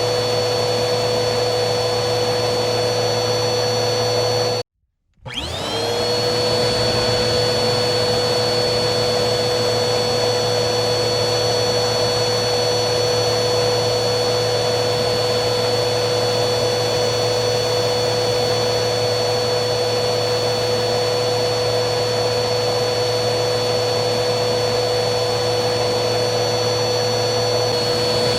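Vacuum cleaner motor running with a steady hum and whine. About five seconds in it cuts out abruptly for half a second, then whines back up to speed and runs on steadily.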